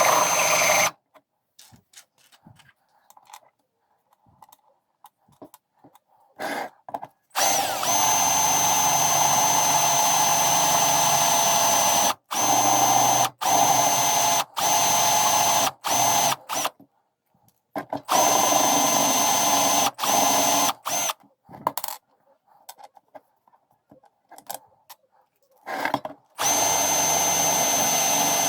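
Power drill running in repeated bursts, with a steady high motor whine. There is one long run of about four seconds, several shorter runs with brief stops between them, and silent gaps in between.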